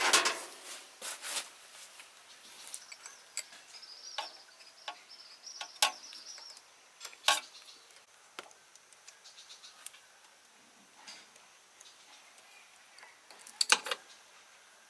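Scattered sharp clicks and knocks, with a louder cluster at the start and another near the end. A faint high steady tone runs for a few seconds in the middle.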